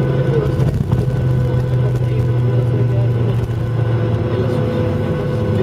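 Jet airliner's engines at idle heard from inside the passenger cabin while taxiing after landing: a steady drone with several held tones over a low rumble.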